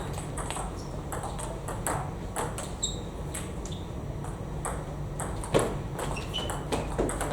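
Table tennis balls clicking off bats and the table in quick, irregular succession during rallies, the sharpest hit about five and a half seconds in, over a steady low hum.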